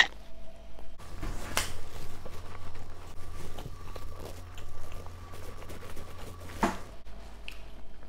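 A person chewing a mouthful of soft tortilla wrap, with faint wet mouth sounds and two sharp smacks, one about a second and a half in and one near the end, over a low steady hum.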